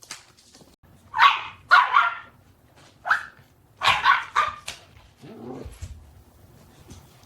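Dog barking, about seven sharp barks in clusters, followed by a quieter, lower-pitched sound about five and a half seconds in.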